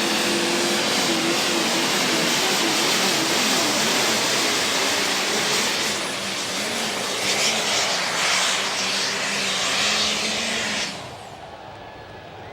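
Diesel super stock pulling tractors running flat out under load down the track, the engine sound wavering in pitch with a steady high whistle over it. The engine sound drops off suddenly about eleven seconds in as the run ends.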